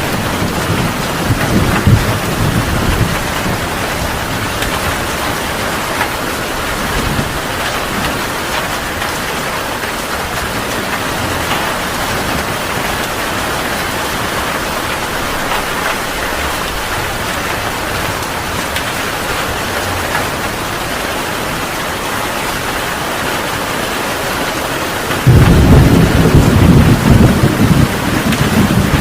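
Heavy rain falling steadily in a thunderstorm, with low thunder rumbling at the start and a loud thunder rumble breaking in suddenly near the end.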